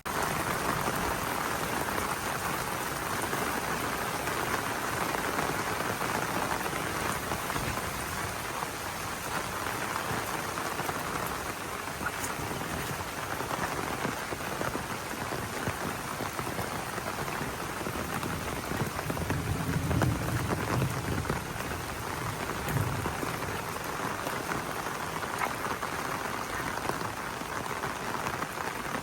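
Heavy rain pouring down steadily, with a brief low rumble of thunder about two-thirds of the way through.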